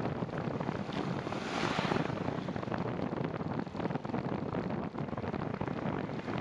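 Wind buffeting the microphone over the hiss of bicycle tyres rolling on a wet path, with a louder surge about a second and a half in.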